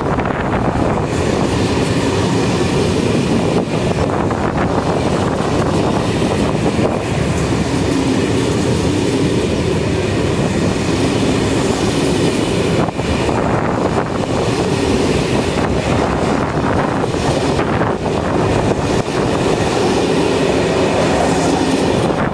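A train running past on the track: a steady rumble of wheels on rail, with occasional sharp clicks.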